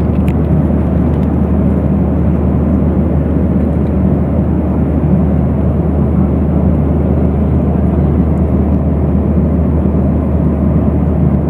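Airliner cabin noise in cruise flight: a steady low hum and rush of air from the engines and airflow, unchanging throughout.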